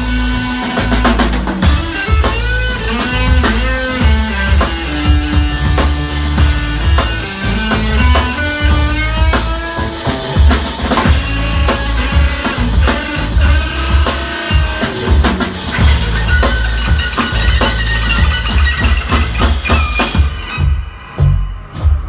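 Live rock band playing: drum kit, bass and electric guitar, with a wavering melodic line over steady bass notes. The band stops abruptly near the end.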